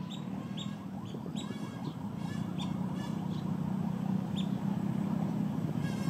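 Several short, high calls from wading birds, some in quick rasping series, over a steady low background hum.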